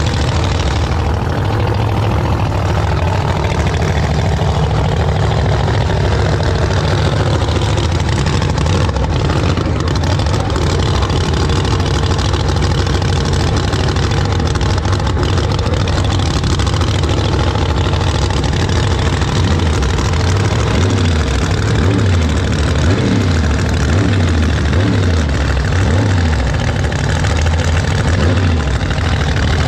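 Pickup truck engine idling loudly and steadily, its low rumble turning uneven and pulsing from about twenty seconds in.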